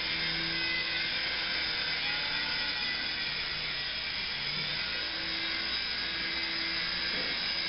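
Toy remote-control helicopter's small electric motor and rotors whirring steadily.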